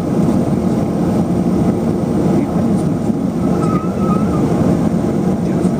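Cabin noise inside a LET-410 twin-turboprop airliner: the steady, loud drone of its engines and propellers.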